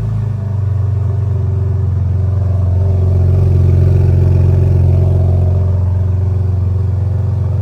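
BMW M3 engine idling, heard through its exhaust as a steady low drone. The idle drops slightly just at the start, and the sound swells a little around the middle before settling again.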